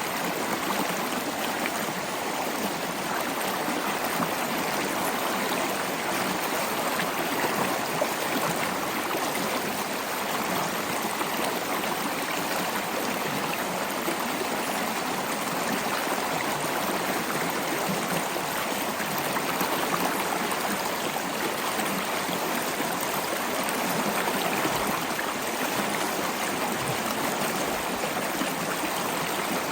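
Wood logs burning in a fireplace: a steady rushing hiss of flame thick with small, fast crackles.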